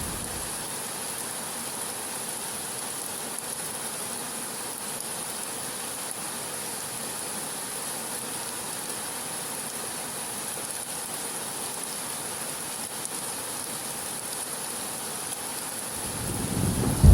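Heavy rain falling in a steady, even hiss. A low thunder rumble dies away in the first second, and another begins to swell right at the end.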